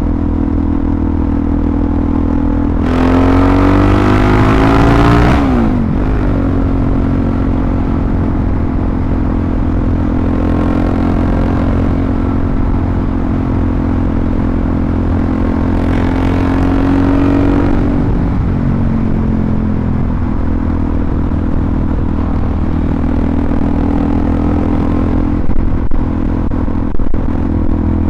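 Suzuki DR-Z400SM's single-cylinder engine through a full Yoshimura RS-2 exhaust while riding: a steady engine note that revs up a few seconds in, drops back, and rises again past halfway before settling. A few short sharp cracks near the end.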